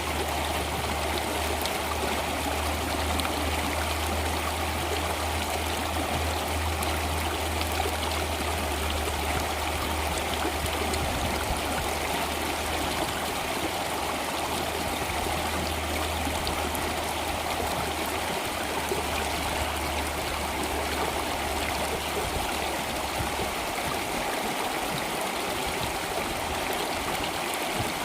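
Stream water flowing steadily, an even rush with trickling, over a low rumble that dies away a few seconds before the end.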